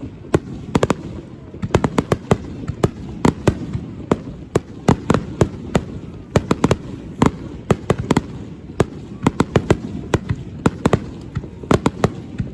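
Aerial fireworks going off: many sharp cracks and pops in quick, irregular succession, several a second, over a steady low background.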